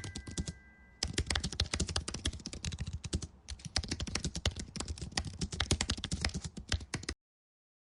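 Computer keyboard typing: rapid runs of key clicks with two short breaks, stopping abruptly about seven seconds in.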